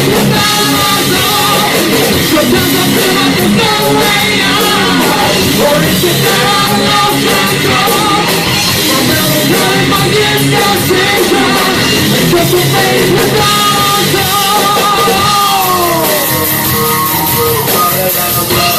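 Live heavy metal band playing loud, with a melodic line bending and sliding in pitch over the band, and a long falling slide near the end.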